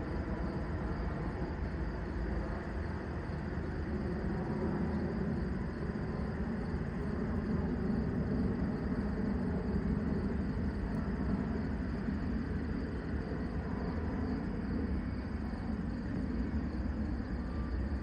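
Distant freight train rolling by, a steady low rumble of its GE Evolution-series diesel locomotives and cars that swells a little midway through.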